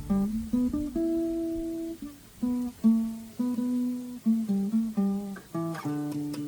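Steel-string acoustic guitar playing a blues lick of single notes picked one after another, with a quick strum near the end.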